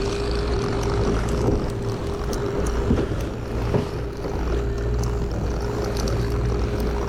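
Boat engine running steadily, with a constant whine and a deep hum under a dense rush of wind and water noise.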